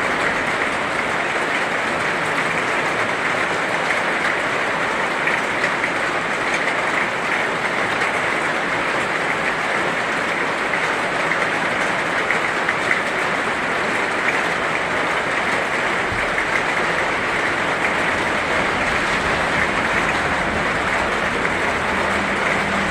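Heavy rain falling steadily, a dense, even hiss of countless drops that doesn't let up.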